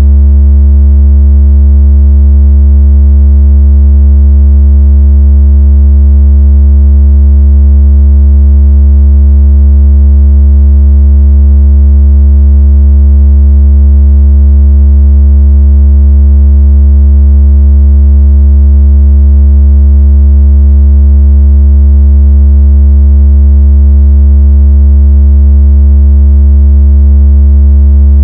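Synthesized deep, loud, steady electronic tone with faint overtones and no change in pitch or level, a water-out-of-speaker tone made to vibrate a phone speaker's cone and shake out water.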